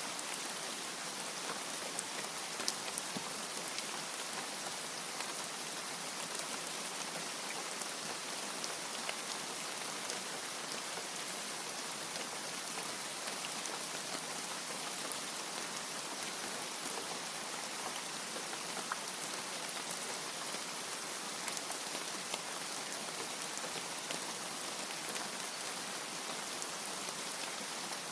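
Steady rain falling: a dense, even hiss with many small sharp drop ticks scattered through it.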